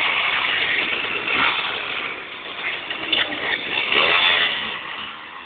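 Small motorcycle engines, a Zipp Toros and a Simson, revving and pulling away, the note rising in pitch several times. The sound grows fainter in the last second as the bikes ride off.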